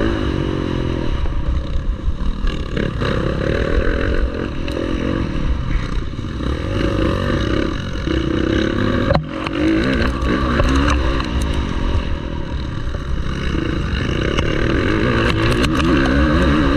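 Motocross bike engine racing, its pitch rising and falling again and again as the throttle is opened and shut and gears change, with a brief cut in the engine about nine seconds in.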